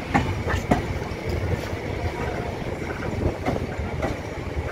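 Passenger train running along the track: a steady rumble of the wheels, with sharp clacks over the rails, several of them close together in the first second.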